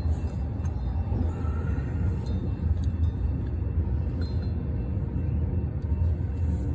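Steady low rumble, with a few faint metal clinks from hand tools (socket and extensions) working on the starter bolts.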